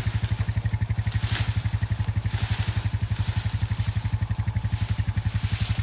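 A vehicle engine idling steadily with a rapid, even pulse, about fourteen beats a second, with a few faint rustles over it.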